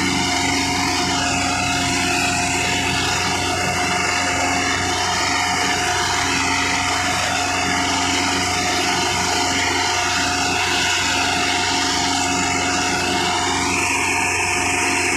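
Massey Ferguson 375 tractor's diesel engine running steadily, working under load pulling a heavily loaded sugarcane trolley.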